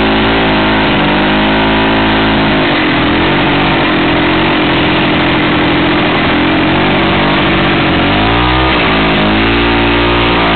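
Off-road vehicle engine running under load as it is driven, its pitch dropping and climbing again twice as the revs change.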